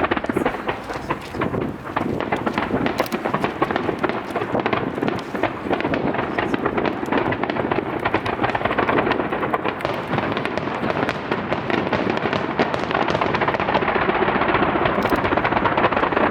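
Starmine fireworks barrage: a dense, continuous stream of rapid shell bursts and crackling, with no gaps between reports.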